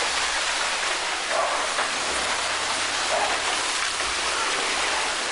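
Steady rushing noise of a landslide of mud and debris moving downhill, rain-like and unbroken.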